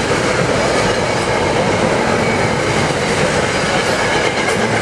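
SEPTA Silverliner IV electric multiple-unit cars passing close at speed: a loud, steady rush of steel wheels on rail with rail-joint clickety-clack.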